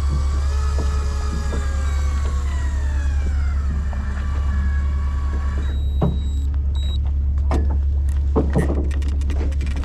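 Electric fishing reel motor whining as it winds line up from deep water, its pitch sagging, then cutting off a little past halfway; a few clicks and knocks follow. A steady low drone from the boat's engine runs underneath.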